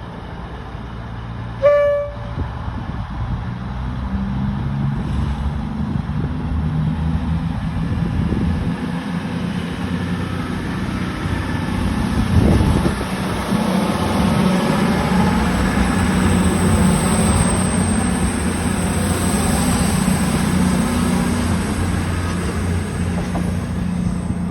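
CrossCountry Class 220 Voyager diesel-electric multiple unit sounds one short horn tone about two seconds in, then pulls away under power, its underfloor diesel engines building to a steady low drone. A thin high whine comes in about two-thirds of the way through.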